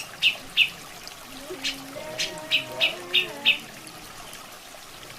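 Grey-cheeked bulbul (cucak jenggot) calling: about seven short sharp notes scattered through the first three and a half seconds, with low wavering whistles in between, over steady trickling water.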